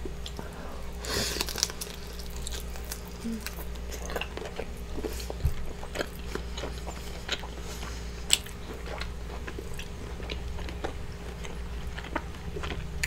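A person chewing and biting saucy seafood-boil shellfish, with scattered wet smacks and small crunchy clicks; one sharper click about eight seconds in. A faint steady hum underneath.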